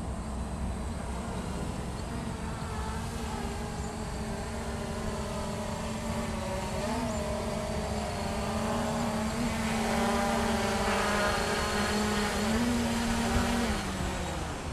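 Hubsan H501S quadcopter's brushless motors and propellers humming, with small shifts in pitch. The hum grows louder about ten seconds in, then its pitch falls near the end as the motors slow down.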